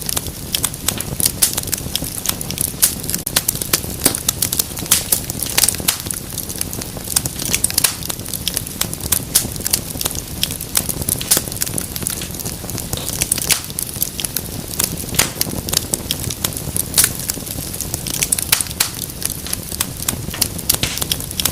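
Wood fire in a fireplace crackling steadily, with frequent sharp pops and snaps over a low rush of burning.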